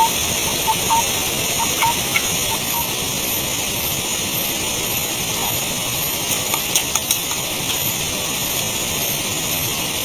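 A steady hiss, with a faint high pulse repeating about twice a second and a few sharp clicks past the middle.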